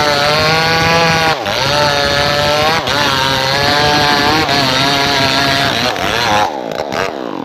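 Engine-powered saw running hard through trembesi timber, its pitch wavering with the load and dipping briefly every second and a half or so. About a second before the end it slows and winds down.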